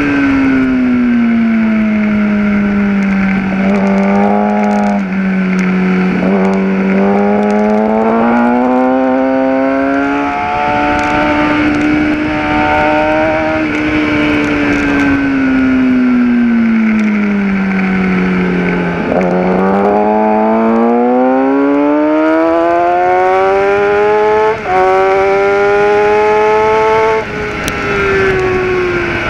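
Gen4 Kawasaki ZX-10R's inline-four engine at track speed, heard from on board. The revs fall off into corners and climb hard between them, with a brief drop in the engine note about 25 seconds in, during a long climb.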